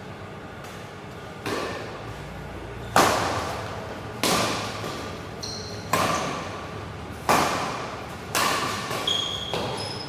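Badminton rally: rackets striking the shuttlecock about every second and a half, seven sharp hits ringing in a large hall, with a few short high shoe squeaks on the court in the second half.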